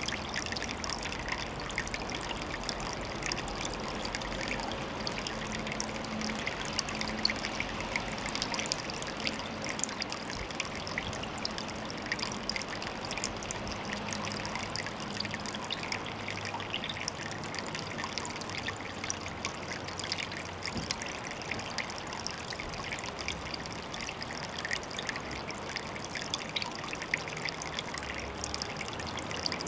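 Water trickling steadily, with a constant patter of small drips and splashes.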